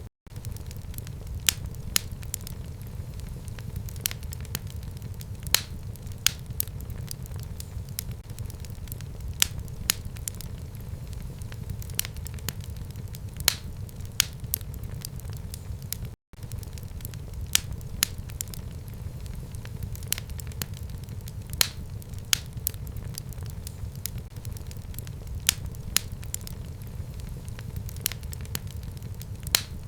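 Fire crackling in a home fireplace: sharp, irregular pops, one or two a second, over a steady low rumble of the flames. The sound cuts out for a split second twice, just after the start and about sixteen seconds in.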